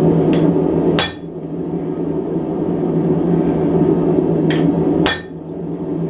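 Hammer blows on a hot cut chisel driven into red-hot steel bar on an anvil, splitting the end into two tines. Two heavy strikes about four seconds apart each ring briefly, and each comes after a light tap.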